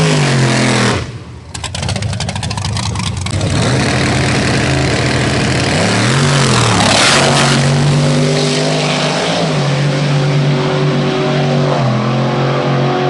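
Big-block nitrous V8 of a street-race Camaro, loud. It revs up and down at the line, gives a short rev about six seconds in, then holds a long steady full-throttle note that steps down twice as it runs down the street.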